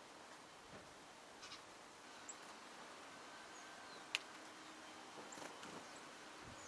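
Small birds feeding, heard faintly: a few brief high chirps and scattered light clicks, with one sharper click about four seconds in, over a quiet hiss.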